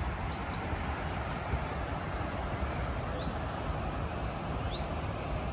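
A small bird calling several times, each call a short level note followed by a quick rising whistle, about every second and a half to two seconds, over a steady outdoor background rush and rumble.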